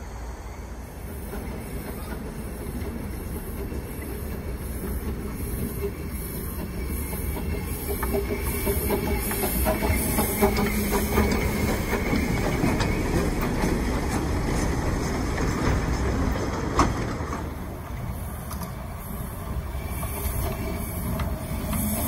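Small narrow-gauge railway train running on its track: steady rumble with rattling and clicking from the carriage wheels. It grows louder toward the middle, with one sharp knock about three-quarters of the way through.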